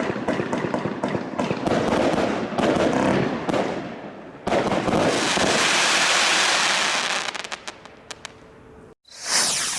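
A 49-shot firework barrage cake firing: dense crackling and rapid pops for about four seconds, then a sudden loud, steady hissing crackle for about three seconds that thins out into scattered snaps. Near the end, after a brief break, comes another loud burst that fades away.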